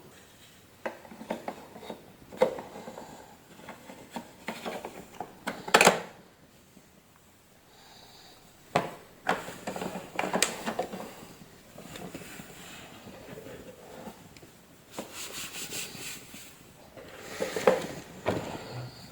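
Irregular clicks, knocks and rubbing of plastic vacuum cleaner parts being handled and fitted together, with a sharp knock about six seconds in and bursts of clatter later on; the motor is not running.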